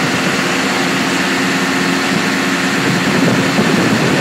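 Cat 789C haul truck's 3516B sixteen-cylinder, quad-turbocharged diesel engine idling steadily, swelling slightly near the end.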